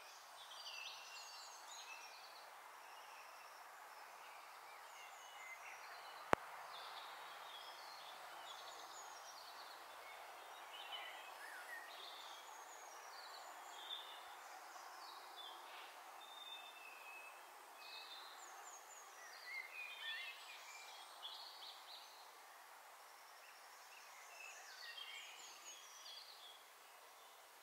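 Several small birds chirping and trilling in short phrases throughout, over a steady even hiss, with a single sharp click about six seconds in.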